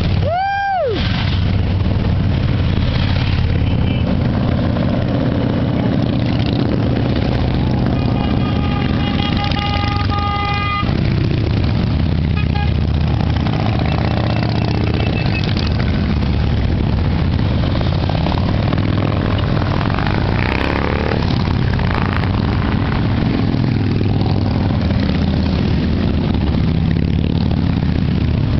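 A group of motorcycle engines running and rumbling steadily. A vehicle horn sounds for about three seconds roughly a third of the way in, and a brief swooping, siren-like tone is heard at the very start.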